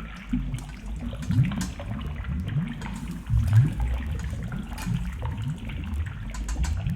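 Water sloshing and gurgling in a kitchen sink during hand dishwashing, a continuous churning sound with short rising gurgles.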